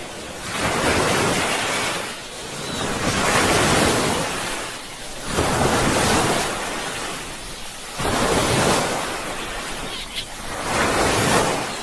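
Sea waves breaking and washing on a shore, a steady hiss that surges and falls back every two to three seconds.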